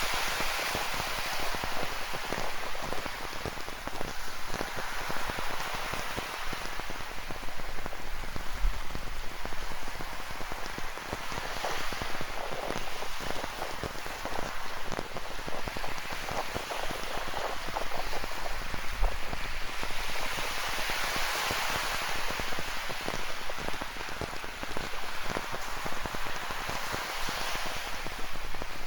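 Steady rain falling, a dense patter of many close drops, over ocean surf that swells and fades every several seconds.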